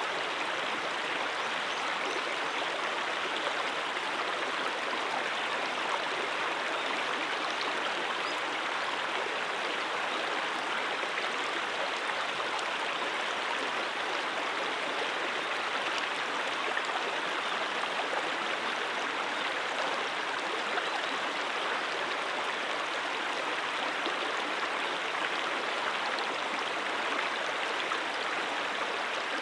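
Stream water flowing over rocks, a steady, unbroken babble with no pauses or surges.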